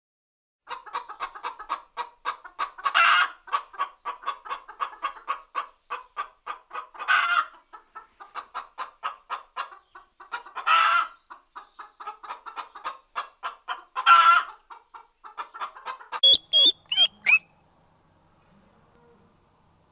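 Chicken clucking in a fast, steady run of about five or six clucks a second, broken about every three to four seconds by a louder, longer squawk; a few short, sharper calls come near the end before it stops.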